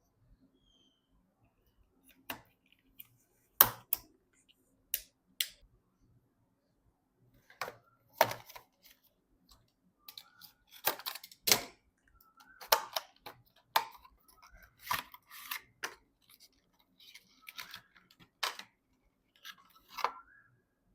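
PC parts and their packaging being handled: irregular sharp clicks and taps, a few at a time at first and more closely bunched in the second half.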